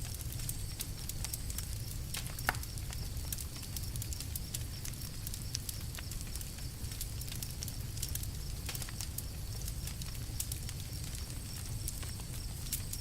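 Wood campfire crackling, with irregular small pops and snaps over a steady low rumble; one louder pop about two and a half seconds in.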